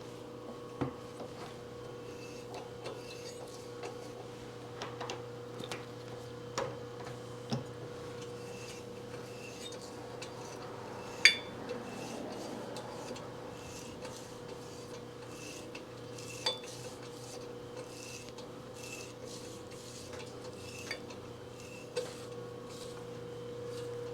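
Light metal clicks and scraping from hand-tool work in the cylinder's stud hole, with one sharper clink about eleven seconds in, over a steady hum.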